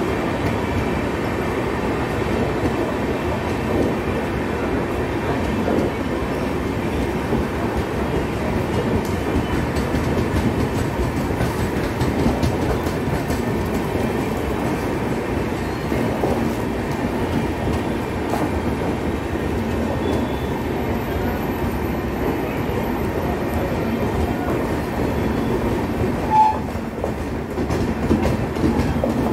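LHB passenger coaches of an Indian Railways superfast express rolling past along the platform as the train pulls in: a steady rolling rumble with faint clicks from the wheels. A brief high tone stands out about 26 seconds in.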